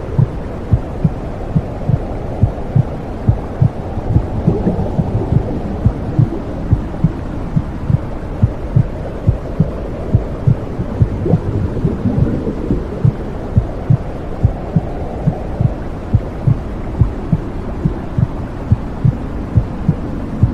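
Womb sound for soothing a baby: a slow, even heartbeat of low, muffled thumps over a deep whooshing rush like blood flow. The whoosh swells and fades now and then.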